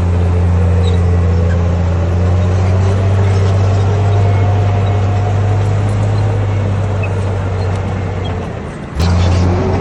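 Bulldozer diesel engine running steadily under load, a deep constant drone with a fainter whine above it. Near the end the engine note fades for about half a second, then comes back abruptly with a sharp click.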